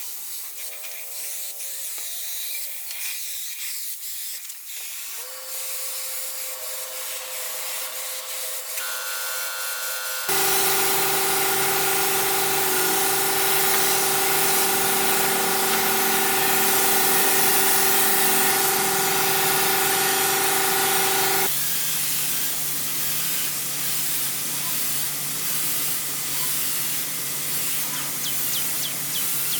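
Steady spraying hiss, like air or spray blowing from a nozzle. About a third of the way in, a louder machine hum with a steady pitch joins it, then cuts off abruptly about two-thirds through, leaving the hiss.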